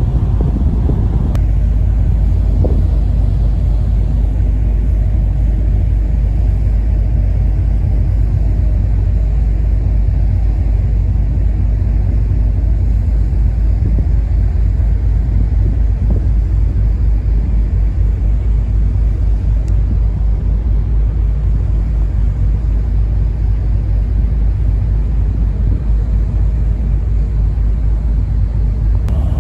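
A car ferry under way, giving a loud, steady low rumble of engine and hull noise heard on board.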